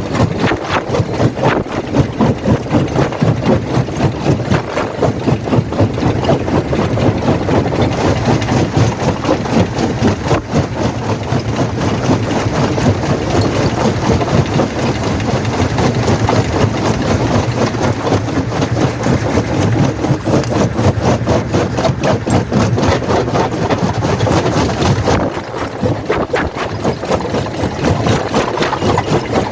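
Quarry primary jaw crusher running: a steady, loud machinery drone with a rapid, even pulsing. It grows harsher about eight seconds in and drops briefly quieter near the end.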